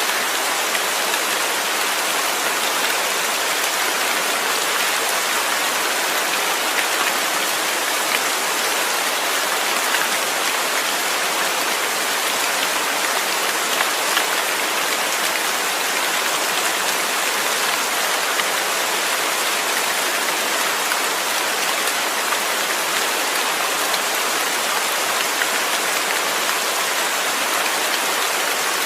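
Steady rain falling on a surface, a constant even hiss with fine scattered drop ticks.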